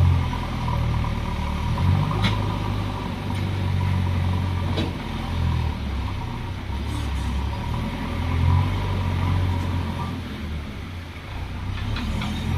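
Diesel engines of JCB 3DX backhoe loaders running under load, the low engine sound swelling and easing as the machines work, with a couple of sharp knocks.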